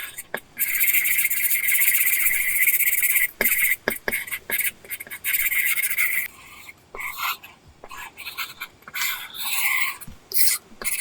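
Apple Pencil tip scratching on a paper-texture screen film on an iPad. A long, steady run of back-and-forth strokes, as in shading or filling an area, lasts about six seconds. It then gives way to shorter, separate strokes and light taps.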